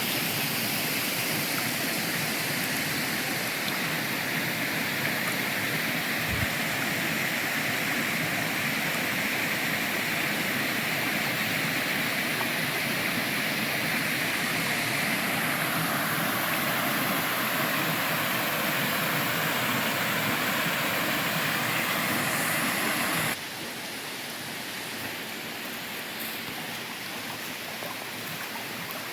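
Waterfall and creek water rushing in a steady, full noise. About three-quarters of the way through it cuts suddenly to a quieter, duller rush of water.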